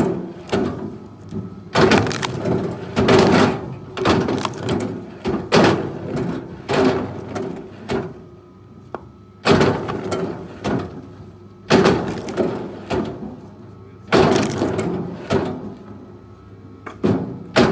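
Wood cracking and splintering in repeated loud crashes, about one every second or so, as a heavy machine works through timber, over the steady drone of its engine.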